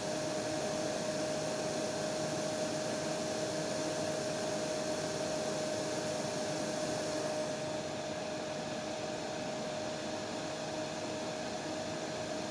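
Hair dryer running steadily: a rushing blow with one steady whine at a fixed pitch. About eight seconds in, the hiss turns a little quieter and duller, and the blowing carries on.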